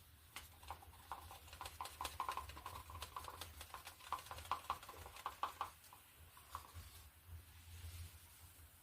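Faint quick clicks and taps from a paint container being handled as acrylic paint is poured onto a canvas, a run of several seconds that stops about two-thirds of the way through, over a steady low hum.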